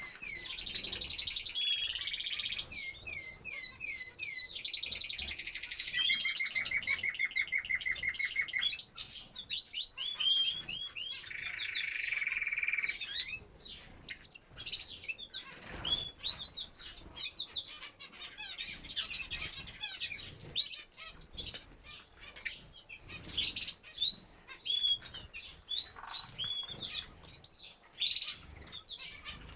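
Canaries singing: strings of repeated whistled notes, a fast even trill and a buzzy roll, with short wing flutters in between.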